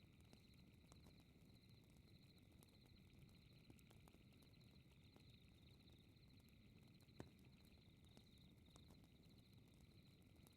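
Faint fireplace crackling: scattered sharp pops, one louder pop about seven seconds in, over a steady low rumble of the fire. A high, even pulsing chirr runs underneath.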